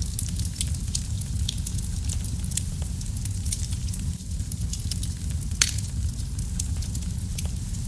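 Wood fire burning in a fireplace: a steady low rumble of flames with frequent small crackles and pops, one sharper pop a little over halfway through.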